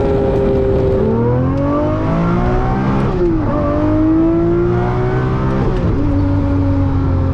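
Lamborghini Murcielago SV's 6.5-litre V12 pulling hard under acceleration, its pitch rising through the revs and falling sharply at two upshifts, about three seconds and six seconds in, then holding steady.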